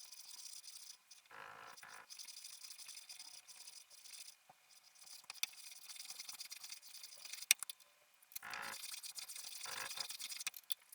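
Hand woodworking on a setar part: light scraping and rubbing on wood with scattered small clicks and taps. There are two fuller scraping passages, one early and one near the end, and one sharp click about seven and a half seconds in.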